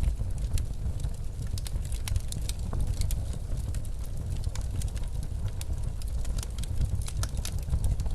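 Wood fire crackling with frequent sharp irregular pops over a steady low rumble of blizzard wind.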